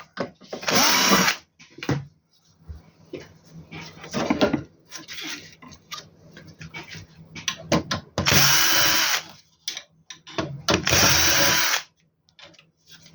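Cordless electric screwdriver running in three short bursts, its motor whine rising and then holding steady each time, as screws come out of the inverter's MPPT circuit board; light clicks and handling noise between the bursts.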